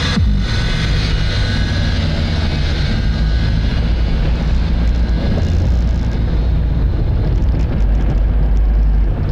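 Steady low rumble and noise of a moving vehicle, with no beat or tune in it; it cuts off abruptly at the end.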